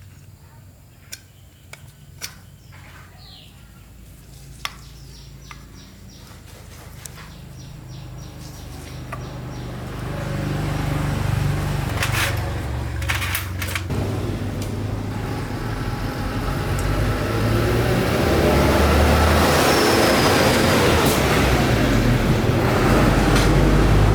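A few faint bird chirps and light clicks, then an engine's low, steady hum starts to build about eight seconds in and grows much louder, levelling off over the last few seconds.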